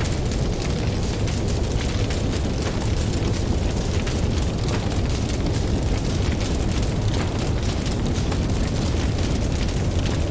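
Campfire crackling, with many small sharp pops scattered throughout, over a steady deep rumble of ocean surf.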